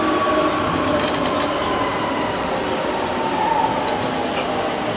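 Tokyu 8500 series train heard from inside a motor car: the whine of its Hitachi GTO-VVVF inverter and traction motors over steady wheel and rail noise, the tones falling slowly in pitch as the train slows.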